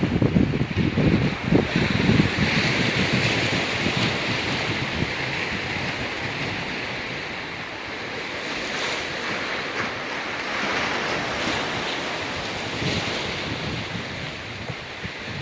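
Ocean waves washing onto a rocky beach, a steady hiss that swells and eases, with wind buffeting the microphone in the first couple of seconds.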